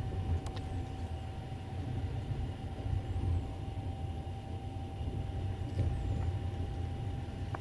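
A passenger train running, heard from inside the carriage at the window: a steady low rumble with a faint steady whine above it. Two brief clicks come through, one about half a second in and one near the end.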